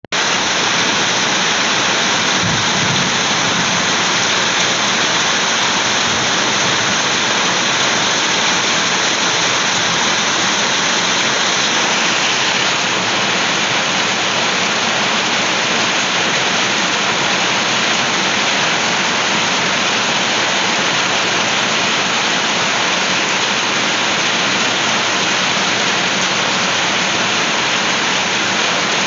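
Heavy rain falling steadily, an even continuous hiss of the downpour.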